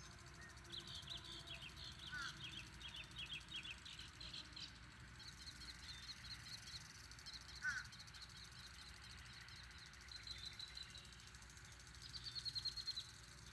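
Songbirds singing outdoors: repeated short trills and chirps, with a few brief lower calls, over a faint low steady background rumble.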